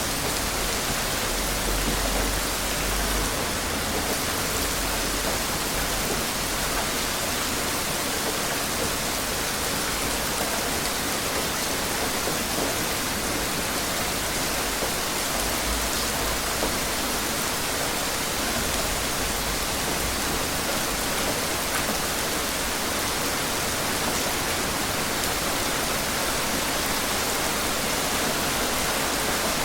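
Steady, even rain with a fine patter of drops.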